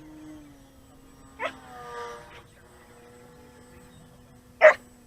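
A dog barks once, loudly, near the end, after a brief whine about a second and a half in. Under it runs a steady hum from the distant electric motor of a radio-control plane, sagging a little in pitch.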